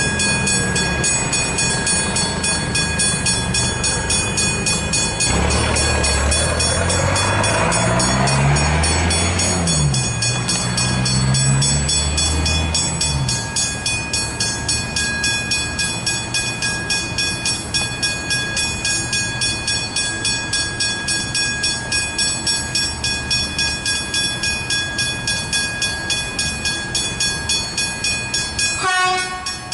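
A train passing over rails, with a low motor sound rising and falling in pitch for several seconds about a third of the way in. A rapid, even ringing of about three to four strokes a second runs throughout. There is a sudden break just before the end.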